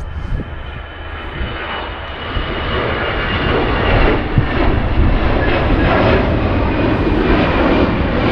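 Passenger jet flying over: its engine noise swells over the first few seconds, then holds loud and steady with a thin high whine on top.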